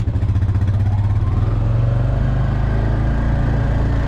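A small motor-vehicle engine running close by at steady low revs, with an even, pulsing low drone.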